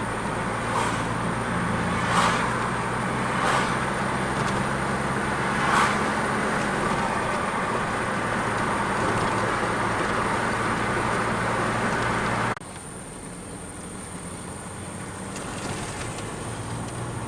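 Car on the move: steady engine hum and tyre noise on the road, with a few short thumps in the first six seconds. The level drops suddenly about twelve and a half seconds in, and quieter running noise continues.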